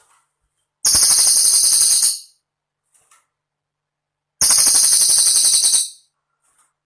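Cililin bird singing: two very rapid, high-pitched rattling trills, each about a second and a half long. The first starts about a second in and the second a little past the middle.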